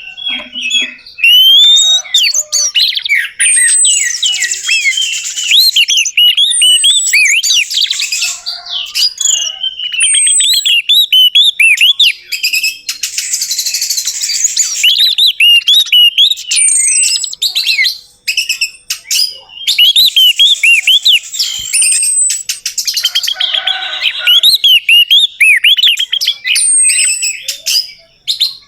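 Orange-headed thrush singing a long, varied run of rapid chirps and whistles, with a high falling whistle that comes back every few seconds.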